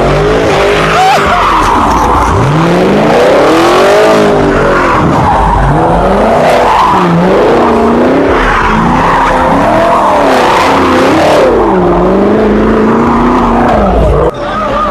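Car engines revving hard, their pitch rising and falling again and again, with tyres squealing and skidding throughout. The sound dips briefly near the end.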